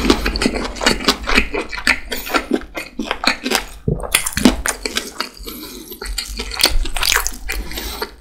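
Close-miked chewing of a steamed lamb dumpling (Uzbek manti), with many quick, irregular mouth clicks and smacks.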